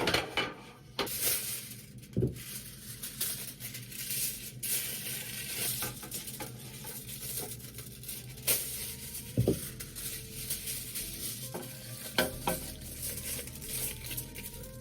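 Kitchen food preparation: steady rustling and scraping of food and utensils, with a few sharp knocks of dishes or pans.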